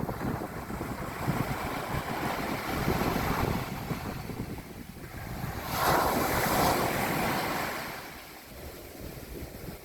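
Mediterranean Sea waves breaking on a beach, the surf swelling and ebbing, with one wave crashing strongly about six seconds in and then washing away. Wind buffets the microphone.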